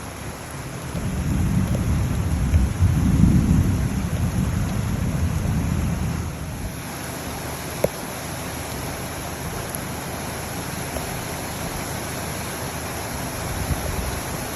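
Steady heavy rain with a rolling rumble of thunder that builds about a second in and dies away after about five seconds.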